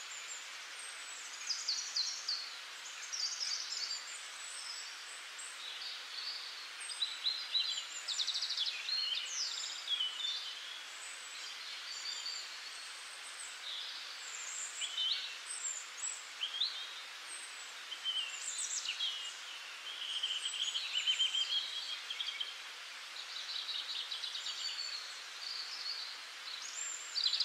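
Small birds chirping and singing faintly, a continuous scatter of short, high, quick calls with no pause.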